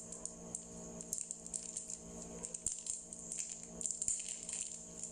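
Mouth sounds of chewing soft, sticky mochi: a string of small, irregular clicks and smacks.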